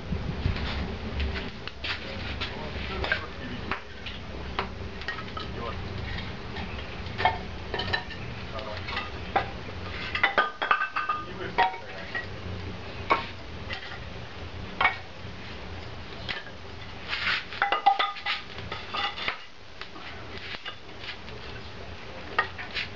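Metal cookware and utensils clinking and knocking: a string of short knocks, with ringing clinks coming in two clusters about ten and seventeen seconds in.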